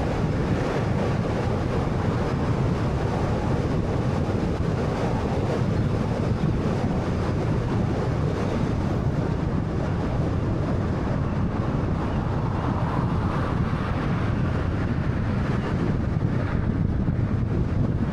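Steady road and wind noise from a 2013 Honda Fit driving along at an even pace: a constant low tyre and wind rush with no gear changes or other events standing out.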